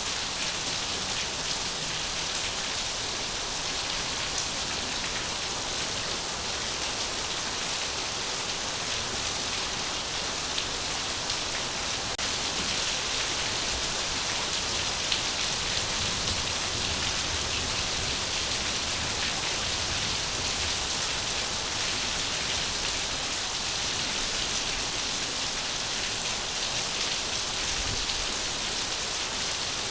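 Steady rain falling, a continuous even hiss of many drops with no breaks.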